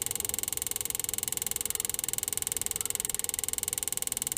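Homemade high-voltage spark device arcing continuously at a water heater's spark igniter wire: a steady, rapid buzzing crackle of sparks in quick succession.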